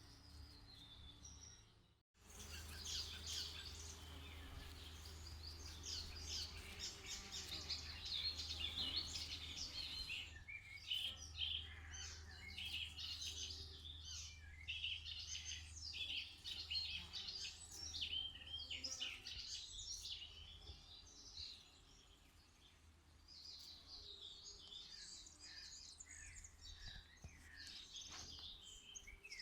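Several songbirds singing together, their quick high chirps and trills overlapping, over a steady low hum. The sound cuts out briefly about two seconds in.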